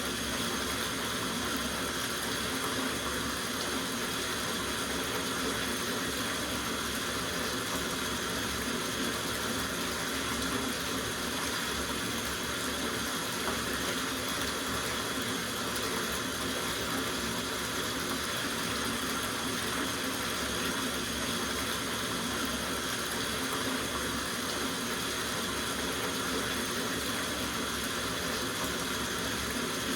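Water running steadily from a tap into a soaking bathtub, a constant even rush with no breaks.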